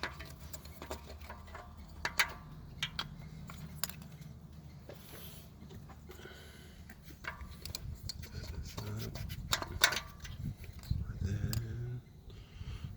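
Scattered clicks and knocks of ignition coil packs being slid back into the spark plug wells of a Honda R18 engine and handled under the hood, over a low steady hum. The handling gets busier in the second half.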